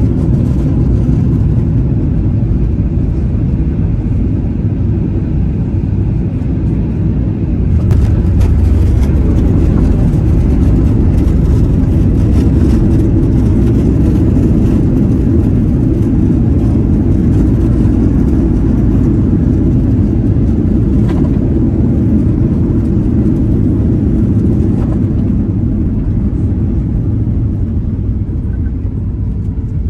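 Steady low rumble of a vehicle in motion, stepping up in level about eight seconds in.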